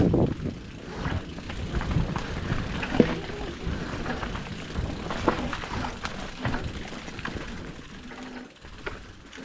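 Mountain bike rolling down a rough dirt trail: a steady low rumble from the tyres, with irregular clicks and rattles from the bike going over bumps and a sharper knock about three seconds in.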